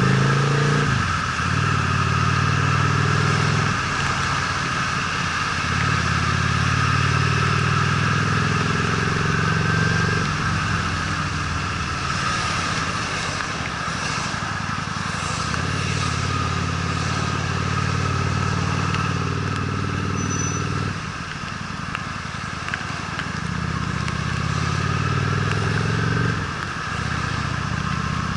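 Honda Steed V-twin motorcycle engine running on the move, its note dropping back and picking up again several times as the throttle is closed and reopened, over a steady rush of wind and tyre noise.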